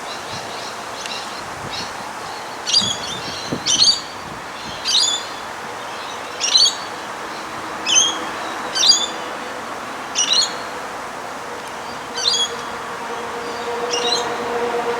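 A bird chirping repeatedly, short sharp calls about every second or so, over steady outdoor background noise. Near the end a low steady hum builds up underneath.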